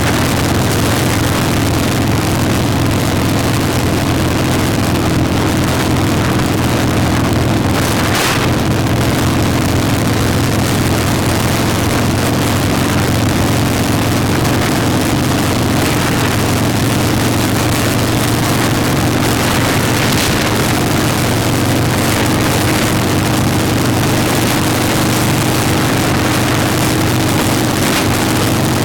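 Motorcycle engine running at a steady speed during a ride, with wind noise on the microphone and a couple of brief gusts.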